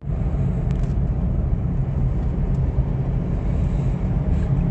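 A motor vehicle on the move: a steady, loud low rumble of engine and road noise.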